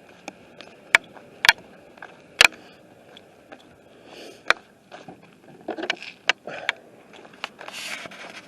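Irregular sharp knocks and clicks with some scraping in between, the loudest knocks about a second, a second and a half and two and a half seconds in.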